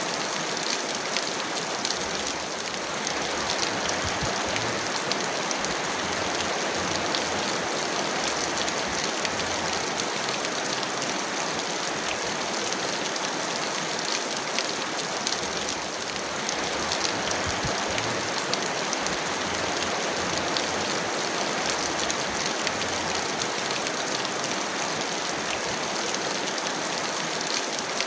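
Heavy rain falling steadily: a dense, even hiss of rain with many sharp individual drop ticks through it.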